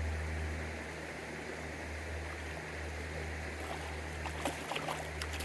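Mountain stream flowing steadily, with a few short sharp sounds near the end.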